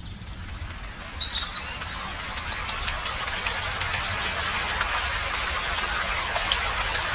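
Small birds chirping: a run of short, high chirps between about one and three and a half seconds in, over a steady outdoor hiss.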